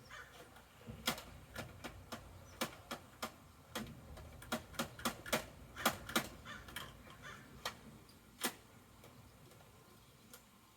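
Plastic clicks and knocks from a toy garbage truck being worked by hand: irregular, sharp taps, closely bunched between about one and seven seconds in, with a last single knock near eight and a half seconds, over a faint low rumble.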